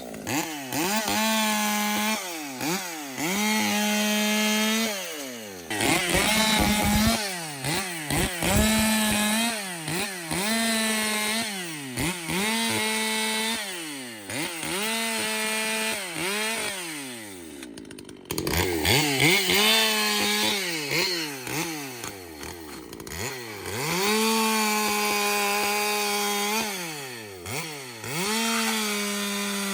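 Ported Echo two-stroke chainsaw revved over and over: held at full throttle for a second or two, then falling off and climbing back again, its high-speed needle just turned out to run richer. About eighteen seconds in the engine briefly drops off almost to nothing before it revs up again.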